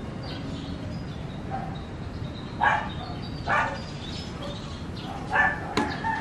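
A dog barking: three short barks spaced about a second apart.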